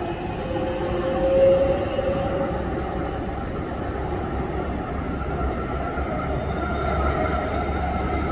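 MTR East Rail line R-train electric multiple unit running along the line and into a tunnel portal: a steady rumble of wheels and running gear, with a faint whine that rises slightly in pitch.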